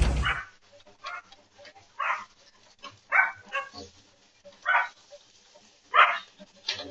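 A dog barking: about seven short, single barks at uneven intervals. A loud rumbling noise cuts off just at the start.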